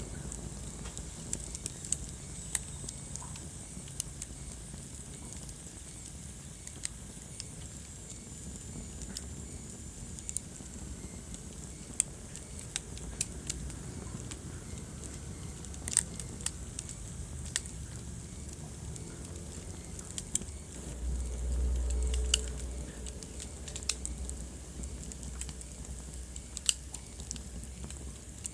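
Wood fire burning in a fireplace, crackling with irregular sharp pops over a low steady rumble. About 21 seconds in, the rumble swells louder for a couple of seconds.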